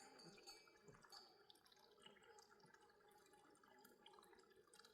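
Near silence: faint background hiss with scattered small ticks.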